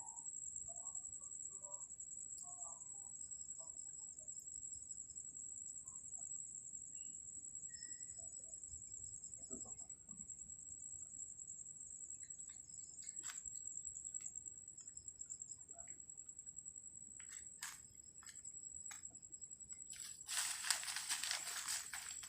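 Insects trilling: one continuous high-pitched cricket-like trill, with short pulsed trills from another insect every few seconds and a few faint clicks. Near the end there is a brief burst of rustling.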